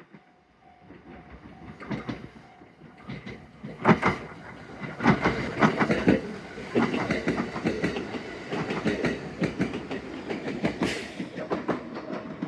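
Train passing close by, its wheels clacking rapidly over the rail joints; the sound builds from about a second in and is loud from about two seconds on.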